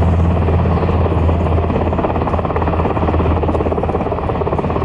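HH-60G Pave Hawk helicopter, with its twin turboshaft engines, flying: a loud, steady low drone from the main rotor with rapid blade chop.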